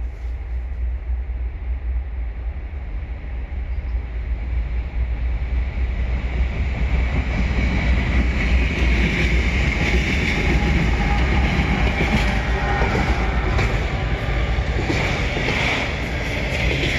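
Canadian National freight train approaching and passing close by. The rumble of its diesel locomotives grows louder from about four seconds in, then rail cars roll by with steady clattering of steel wheels on the rail joints.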